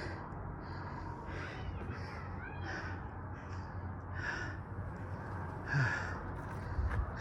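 Birds calling: a string of short calls, roughly one a second, with a few quick warbling notes about two seconds in, over a steady low rumble.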